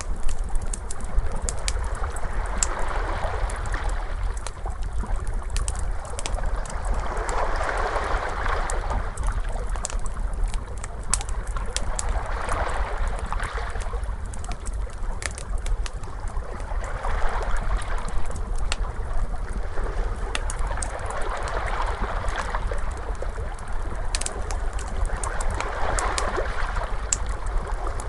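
Ocean waves washing in and drawing back in slow swells about every four to five seconds, over a low rumble, with a wood fire crackling and popping in sharp clicks throughout.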